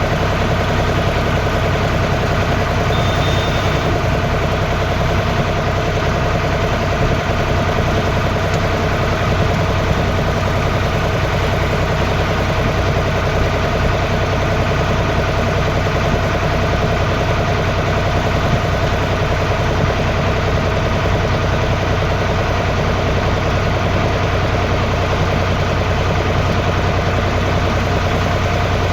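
Tractor engine running steadily under way, heard from on board.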